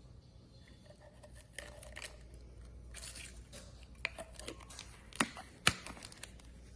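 Soft handling noises: light crinkling and small clicks, with two sharper clicks about half a second apart about five seconds in.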